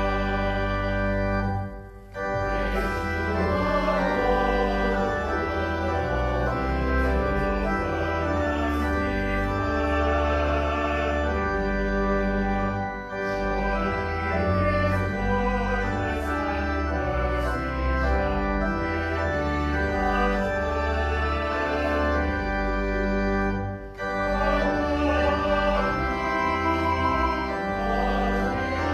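Church organ playing sustained chords over a deep pedal bass, breaking off briefly between phrases about two seconds in and again near the end.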